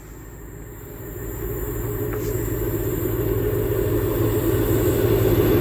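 Class 56 diesel-electric locomotive running light engine, the steady drone of its Ruston-Paxman V16 diesel growing steadily louder as it approaches.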